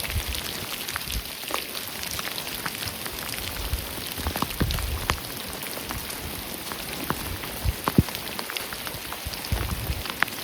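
Heavy rain falling steadily, with many sharp drop hits close to the microphone, the loudest about eight seconds in. Gusts of wind buffet the microphone now and then with a low rumble.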